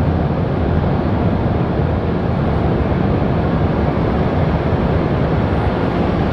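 Steady low rumble of a W7 series Shinkansen trainset at an underground station platform as it starts to creep away.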